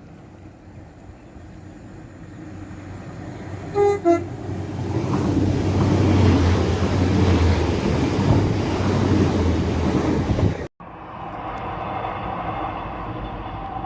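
A passing train gives a short two-note horn blast, high note then lower, about four seconds in, then runs by with a loud rush of wheels and engine. The sound cuts off abruptly near the end and a quieter train rumble follows.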